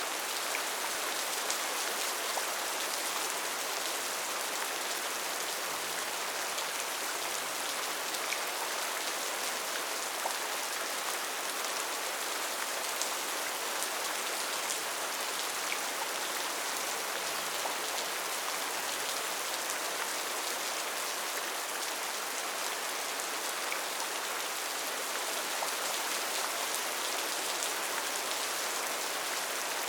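Steady heavy rain falling on foliage, a dense even hiss of many small drop impacts.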